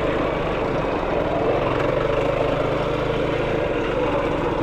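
Yamaha YFZ450R sport quad's single-cylinder four-stroke engine running steadily.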